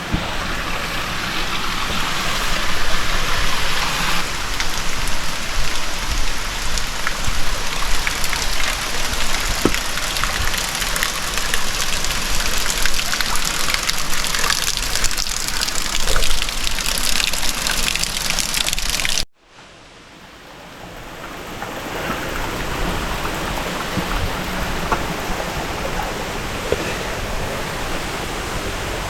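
Steady rushing of a shallow stream and small cascades in a rocky canyon. About two-thirds of the way through it cuts out abruptly, then fades back in over a couple of seconds.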